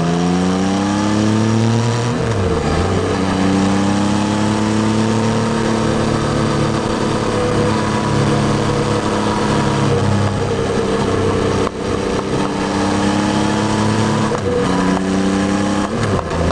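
Yamaha Tracer 9's 890 cc inline-three engine under way. It accelerates in gear at first, then drops in pitch on a gear change about two seconds in, and mostly holds steady. The pitch dips and rises again a few times near the end as the throttle changes.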